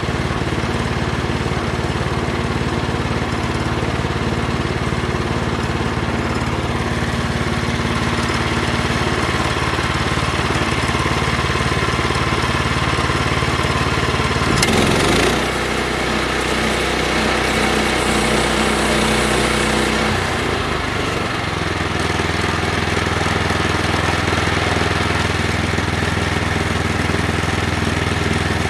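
Portable sawmill's small gas engine running steadily, with a brief loud clatter about halfway through; the engine note changes for a few seconds after it, then settles back.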